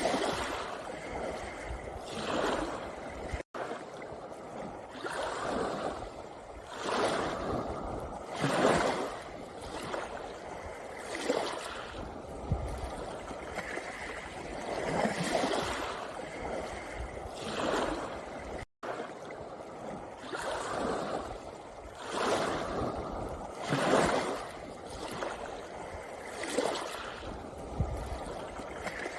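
Sea waves washing in over a pebble beach: a steady hiss of water that swells into a new surge every two to three seconds. Twice the sound drops out for an instant.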